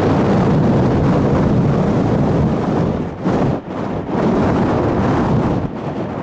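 Strong gusty wind buffeting the microphone, a loud rumbling rush that dips briefly a few times.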